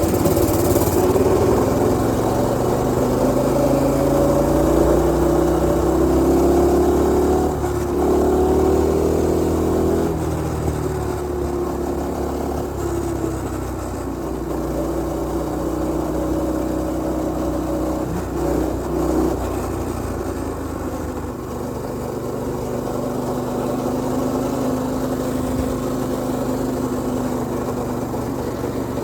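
Mini bike's Predator 212cc single-cylinder engine running on the move. Its revs climb gradually over the first several seconds, drop off about ten seconds in, then run fairly steady at a lower speed.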